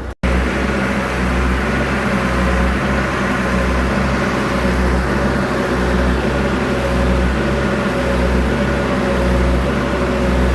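Vehicle engine running at a steady speed with a low, even drone, starting abruptly just after a cut.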